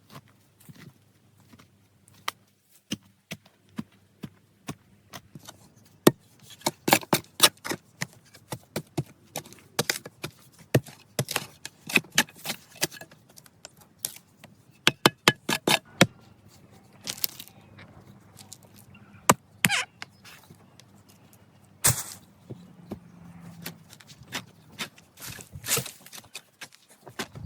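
A long run of sharp knocks, cracks and scrapes in irregular clusters, hand work on wood and earth in the forest.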